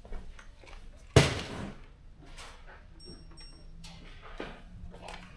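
A single sharp knock about a second in, followed by a few lighter clicks and rustles of hard objects, such as a box of bolts, being handled.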